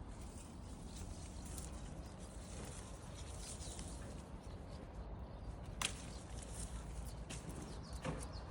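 Rustling and handling noise with two sharp clicks, one about six seconds in and one near the end, over a low steady rumble.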